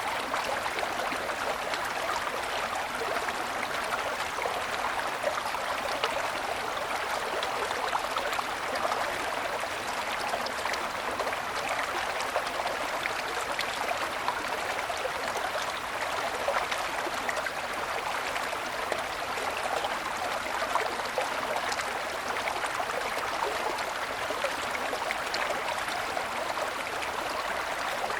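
Mountain stream flowing over snow-covered stones: a steady rush of water with small splashes and trickles.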